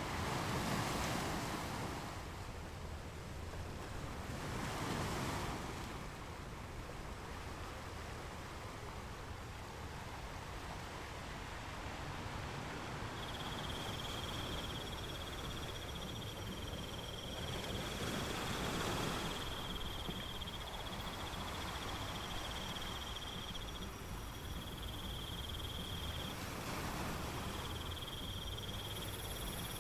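Nature ambience: a steady rushing noise, swelling every few seconds, with a steady high trill joining about halfway through and breaking off briefly a few times.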